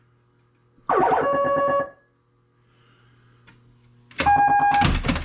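Electronic sound effects from a Stern Trident pinball machine's SB-100 sound board. About a second in there is a short tone that sweeps down and then holds steady. Near the end comes a steady, higher beep with a click-like burst, and a faint low hum from the speaker fills the gap between them.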